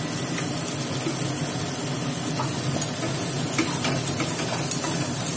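Spice paste sizzling in hot oil in a non-stick wok. From about halfway in, a wooden spatula stirs and scrapes through it with short, irregular scrapes.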